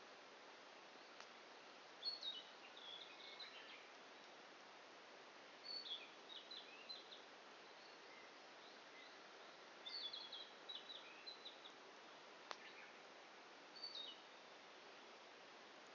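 A small songbird singing short bursts of high chirps, a phrase about every four seconds, over a faint steady hiss. A campfire burning down to embers gives a sharp pop twice, near the start and again near the end.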